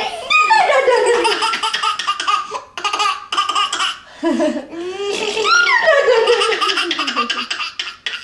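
A baby laughing hard in two long belly-laugh bouts, each a run of quick high-pitched pulses that slides down in pitch at the end.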